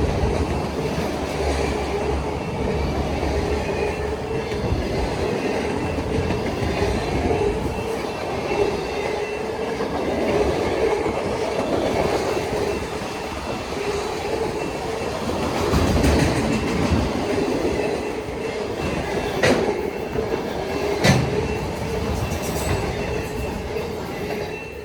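Freight cars of a Union Pacific manifest train rolling past, wheels clicking over the rail joints with a steady squealing tone underneath. Two sharp knocks stand out near the end, and the noise drops away as the train goes by.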